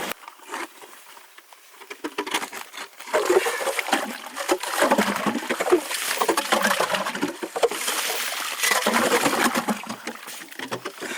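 A hand tool scraping and chopping irregularly through lake ice, with wet slush splashing in the hole, as a water hole is cut.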